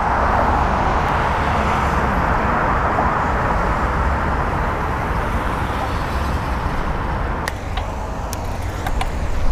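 Wind rushing over the bike-mounted camera's microphone while cycling through city traffic, a steady rumbling hiss, with a few faint clicks near the end.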